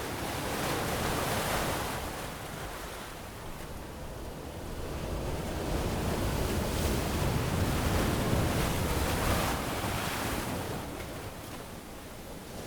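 Surf on a beach: waves washing in and drawing back, swelling twice and falling away between.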